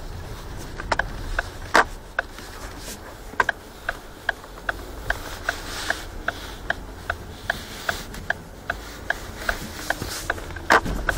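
Ford Focus 3 power steering rack knocking over a rough road, heard from the footwell: sharp, irregular knocks over a steady low road rumble, typical of a worn steering rack. Through the middle of the stretch a steady ticking runs at about two and a half a second.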